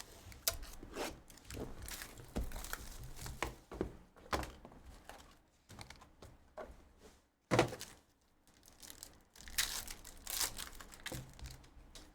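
A trading card pack being torn open and handled: wrapper crinkling and tearing, with irregular knocks of cards and packaging on the table.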